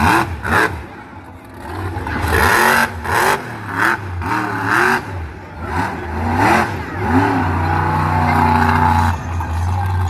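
Monster truck engine revving hard up and down several times, then held at a steady high pitch for a couple of seconds before dropping off near the end.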